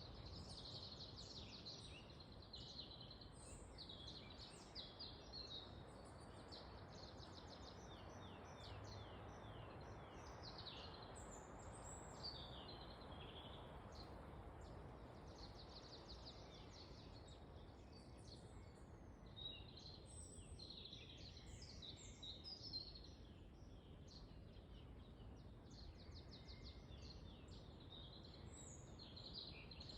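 Faint forest ambience: many small birds chirping and trilling continuously over a steady rush of wind.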